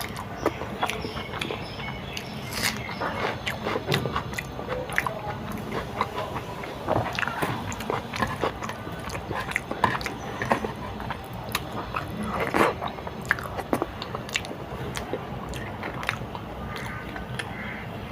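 Close-up eating sounds: a person biting and chewing food, with many irregular sharp crunches.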